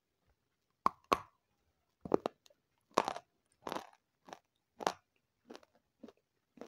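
Close-miked biting and chewing of a crunchy snack: two sharp bites about a second in, then a run of crisp crunching chews, about one every two-thirds of a second.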